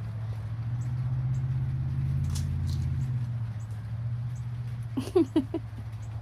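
A steady low hum, with a deeper rumble that swells and fades over the first three seconds. About five seconds in, a hen gives a few short clucks, the loudest sounds.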